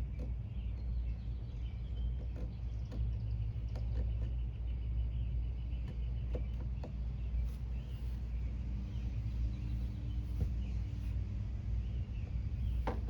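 Small clicks and scrapes of a knife carving into oak, scattered and faint over a steady low outdoor rumble, with faint chirps of birds.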